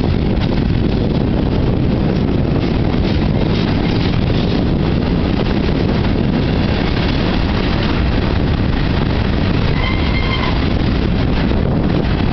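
Freight train rolling past: a steady, loud rumble of railcars on the track. A brief high-pitched tone sounds about ten seconds in.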